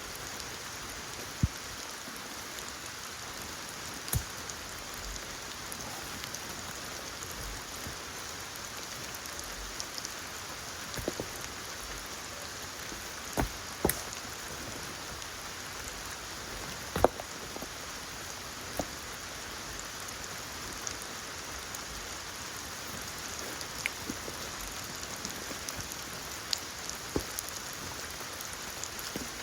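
Steady rain falling in a forest, with heavy drops landing here and there as sharp ticks.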